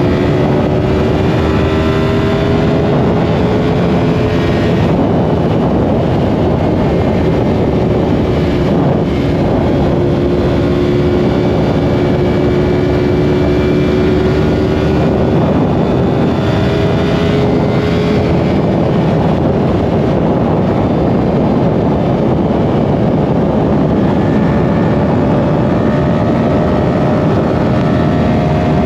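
Yamaha R1's inline-four engine under way at highway speed under a heavy rush of wind noise. The engine note climbs slowly, breaks off about five seconds in and again near eighteen seconds, then comes back higher.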